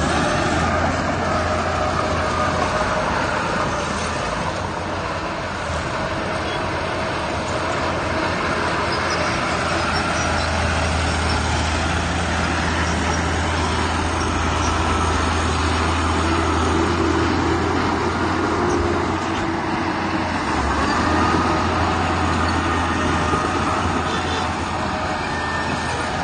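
Heavy diesel machinery running steadily under load: a deep, continuous engine drone with a noisy rumble, from a large truck or earthmover.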